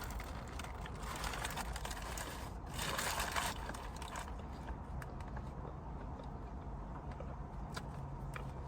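Quiet eating noises: chewing a sandwich, with faint clicks and a brief louder burst of noise about three seconds in.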